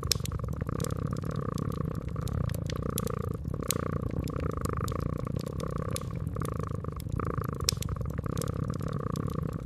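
A cat purring steadily, its purr swelling and fading with each breath, over a wood fire crackling with scattered sharp pops.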